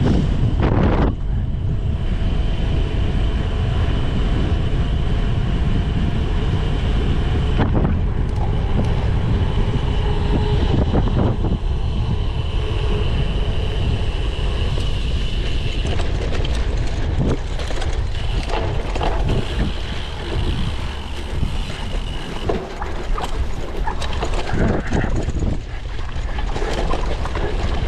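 Wind rushing over the microphone as a cyclocross bike is ridden hard over rough ground, with frequent short knocks and rattles from the bike over bumps.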